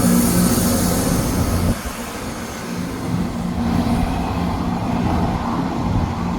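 Diesel train engine running with a steady low hum, dropping in level about two seconds in and then going on over a wash of rail noise.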